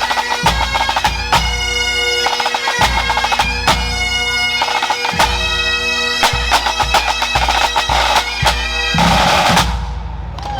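Pipe band playing: Great Highland bagpipes carry a melody over steady drones, with snare and bass drums beating time. The tune ends about nine seconds in.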